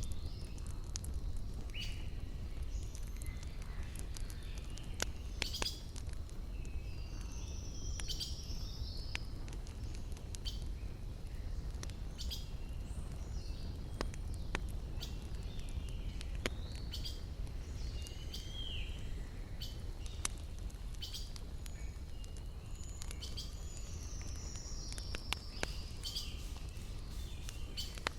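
Campfire wood crackling with scattered sharp pops over a steady low rumble, while forest birds chirp and twitter throughout, twice giving a longer falling phrase.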